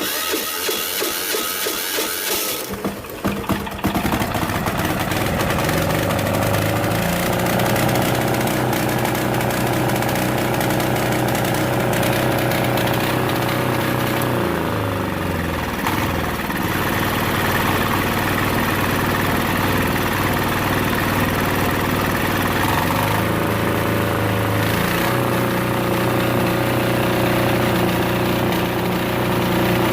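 Yanmar 186F-clone single-cylinder air-cooled diesel cold-started after two years in storage: about three seconds of electric-starter cranking, then it catches and runs steadily with the throttle wide open. Its speed wavers briefly around halfway through and again a little later.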